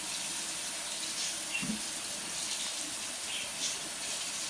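Kitchen tap running steadily into the sink, with small splashes as something is rinsed under the stream.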